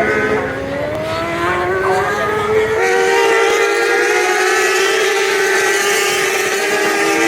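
Racing motorcycles at high revs on track, several engine notes rising and falling over one another, then settling into a steadier high-pitched note about three seconds in.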